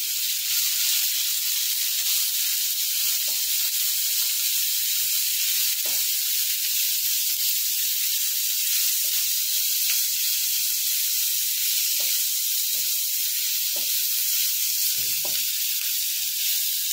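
Sliced onion and capsicum sizzling steadily in hot oil in a nonstick pan, with occasional soft taps of a silicone spatula as they are stir-fried.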